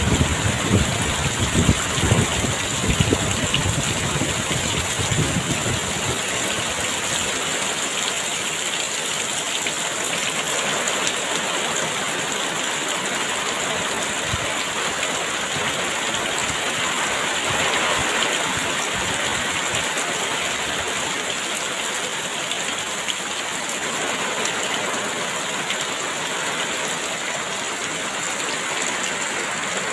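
Heavy rain pouring steadily. Gusts of wind rumble in the first five seconds or so, then die away.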